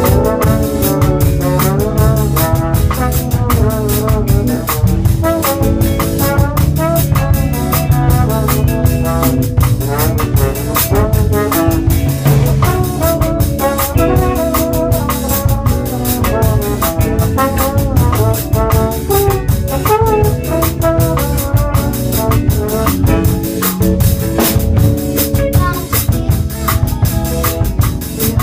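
A live band rehearsing: a drum kit keeps a steady beat under a lead melody line that slides between notes, over a sustained low bass.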